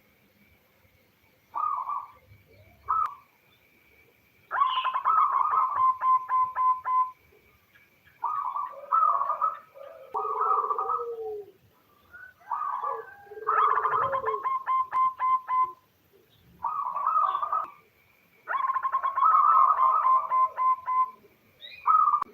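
Female zebra dove (perkutut) cooing in repeated phrases, some short coos and several rapid staccato runs of two to three seconds, with short pauses between; it is the female's call to attract males. A faint steady high tone runs underneath.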